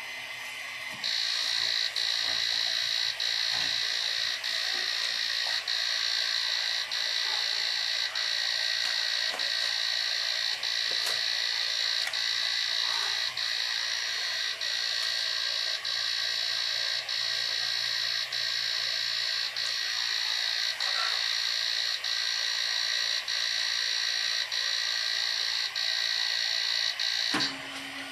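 Malyan M150 3D printer giving a steady high-pitched whine, broken by a brief dip about once a second. It starts about a second in and cuts off sharply near the end.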